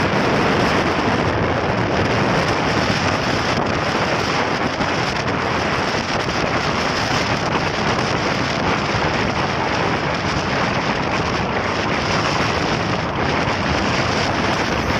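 Steady wind rush buffeting the microphone on a motorcycle riding at 40 to 50 km/h.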